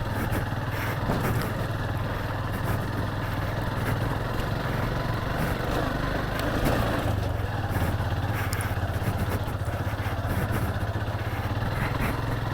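Motorcycle engine running steadily while it is ridden along a rough off-road dirt track, with road and wind noise underneath.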